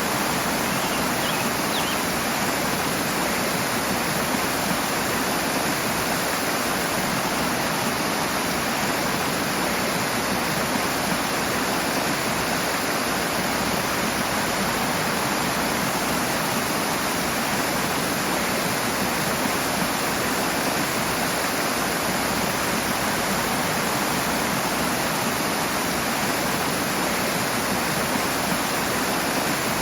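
Rushing water of a stream or small waterfall: a steady, unbroken rush.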